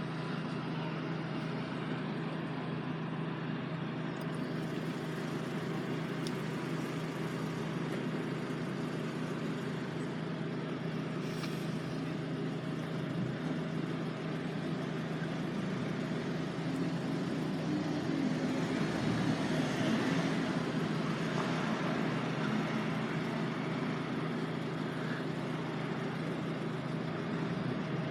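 Road traffic at a level crossing: a steady low engine hum from vehicles, which swells for a few seconds as a vehicle moves about two-thirds of the way through.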